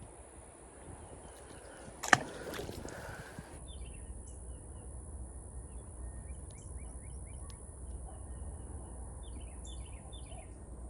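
A single sharp splash in the creek about two seconds in, then birds chirping in a run of short, quick falling notes over a steady low rumble.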